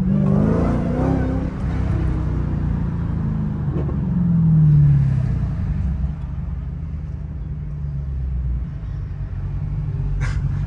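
Supercharged 6.2-litre V8 of a Dodge Challenger SRT Hellcat Redeye, heard from inside the cabin as the car slows in traffic. It makes a steady low drone, with a falling note about four to five seconds in.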